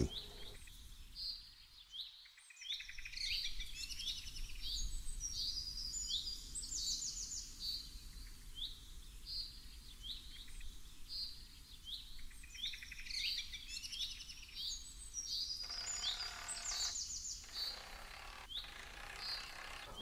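Birds chirping and singing: repeated short high notes and quick trills throughout, over faint outdoor background noise.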